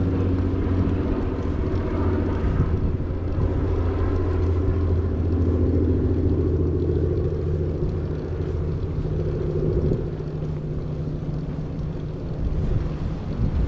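A motor drones steadily, a low hum with higher tones above it that rise a little midway and then ease off near the end.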